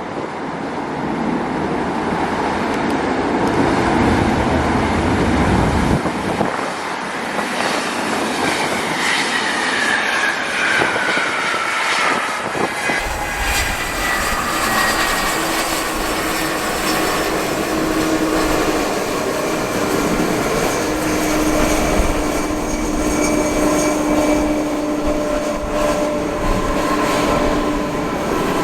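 Boeing 767-300ER's twin jet engines on a landing arrival: a loud, continuous rush with a whining tone that falls in pitch as the jet passes, then settles into steady whining tones.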